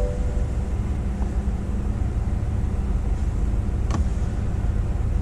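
Chevrolet Tahoe engine idling steadily just after a push-button start, a constant low rumble heard from the driver's seat. A single sharp click comes about four seconds in.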